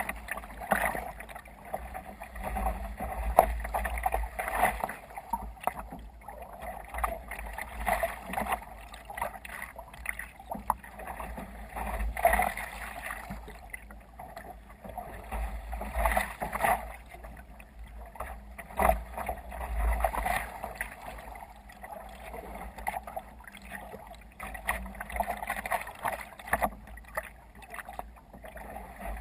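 Water splashing and sloshing against a sea kayak's hull as it moves through waves, in uneven surges every second or two, with a low rumble of wind on the microphone underneath.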